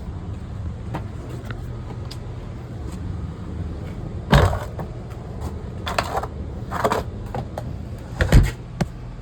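Steady low hum of running machinery, with a few separate knocks and clatters: one about four seconds in, two around six and seven seconds, and the loudest near the end.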